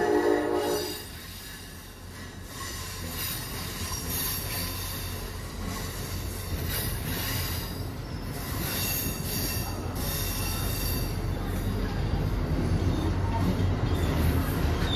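An Amtrak ACS-64 electric locomotive's horn cuts off about a second in. The train's stainless passenger coaches then roll past close by: a low rumble of wheels on rail with intermittent high wheel squeal, growing louder toward the end.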